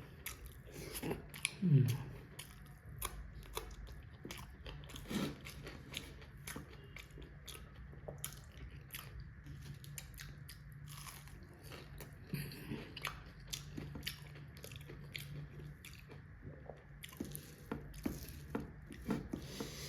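A person chewing and eating a mouthful of rice with fish-oil curry close to the microphone: many small wet mouth clicks and smacks throughout, with a short hummed 'mm' of approval a little over a second in.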